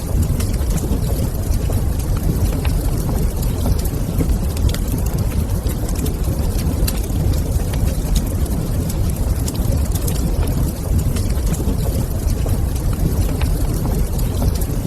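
Wood fire crackling in a fireplace: scattered sharp pops and snaps over a steady low rumbling hush.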